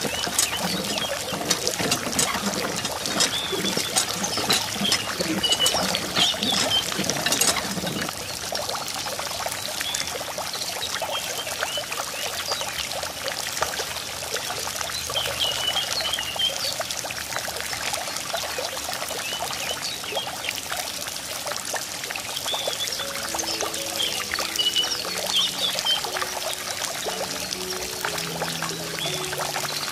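Water pouring and splashing steadily, heavier for the first eight seconds or so and then lighter, with short high chirps now and then. Soft music comes in about two thirds of the way through.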